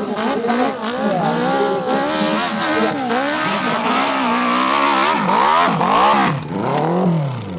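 Hill-climb motorcycle engine revving hard under rapidly changing throttle, its pitch rising and falling over and over, then sweeping down near the end as the revs drop off.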